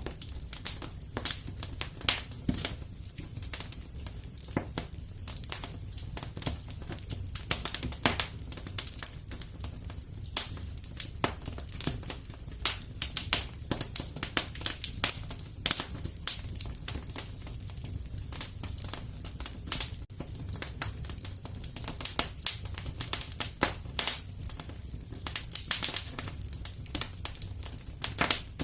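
Wood fire crackling and popping in a fireplace, with irregular sharp snaps over a steady low rumble of flames.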